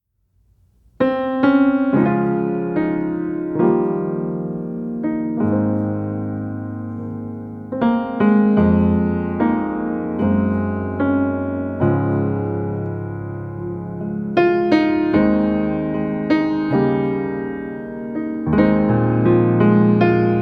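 Background piano music, struck notes and chords ringing and decaying, starting about a second in.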